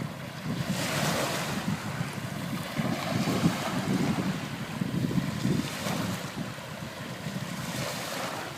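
Sea waves washing onto the beach, swelling about a second in and again near the end, with wind buffeting the microphone in a low rumble.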